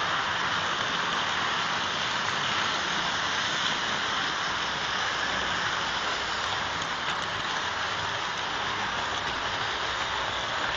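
Hornby model Class 67 locomotive hauling a long train of about 20 wagons and coaches: a steady rushing whirr from its motor and the many wheels running on the track.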